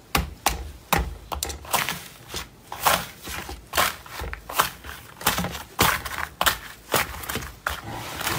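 Slime being pressed and worked by hand, making a series of sharp clicks and crackling pops, roughly two a second.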